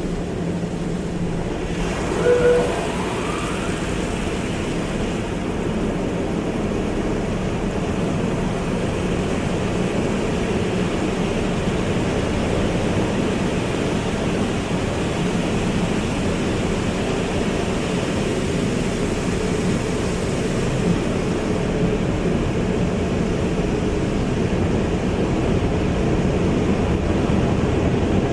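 Automatic car wash: a steady rush of water spray, with a brief high tone about two and a half seconds in.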